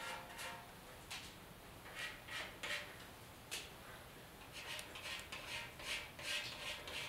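About a dozen short, irregular scratchy strokes of hand work on the surface of a primed motorcycle fuel tank, with quiet between them.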